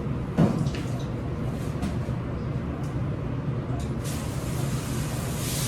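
Dishwashing kitchen noise: a steady low hum, a loud clatter about half a second in, and water spraying from about four seconds in.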